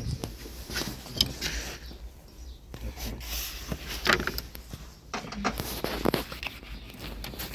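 Irregular knocks, clicks and scrapes of hand work on metal parts, with sharp clicks about a second in, about four seconds in and about six seconds in.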